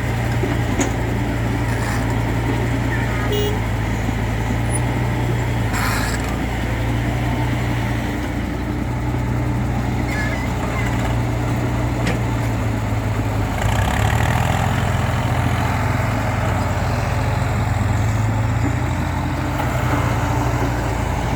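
Heavy machinery engine running steadily with a deep drone; its note shifts about thirteen seconds in, and there is a brief knock near six seconds.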